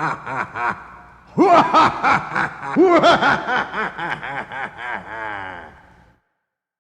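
A person laughing in rapid bursts of 'ha-ha' pulses, a fresh bout starting about a second and a half in and trailing off to silence about six seconds in.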